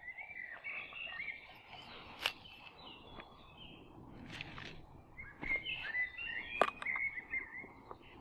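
Songbirds singing, with two spells of quick warbling phrases, the second starting about five and a half seconds in. Two sharp clicks cut through, one about two seconds in and one about six and a half seconds in.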